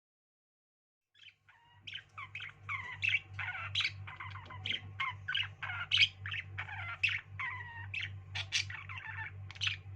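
Pet birds chattering, with rapid overlapping chirps and squawks that start about a second in, over a steady low hum.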